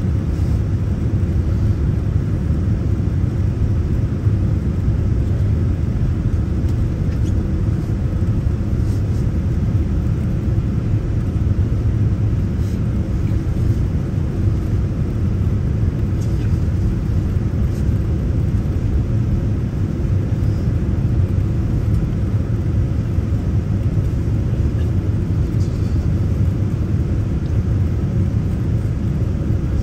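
Steady low rumble of a passenger jet's engines and rushing air, heard inside the cabin.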